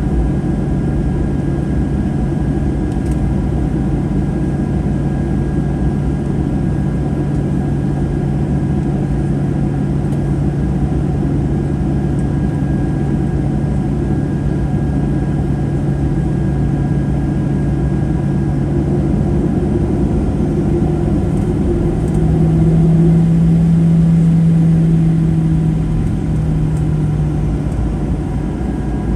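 Cabin noise inside a Boeing 737-800 with its CFM56 engines running: a steady low drone with a hum, which swells louder and slightly higher from about 22 to 27 seconds in, then settles.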